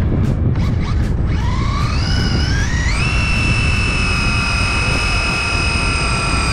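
Electric motor whine of a Traxxas RC drag car, rising in pitch over about a second and a half and then holding one steady high pitch. It plays over a loud low rumble.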